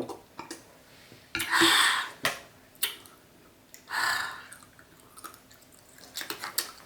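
Close-miked mouth sounds of eating and drinking: small wet clicks and swallows while chewing dry crumb cake and taking water, with two short hissy breaths, about one and a half and four seconds in.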